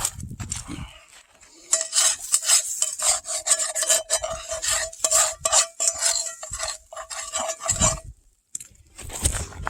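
Metal utensil stirring and scraping in a cast iron skillet: a run of quick strokes over a faint steady ring from the pan, stopping about eight seconds in.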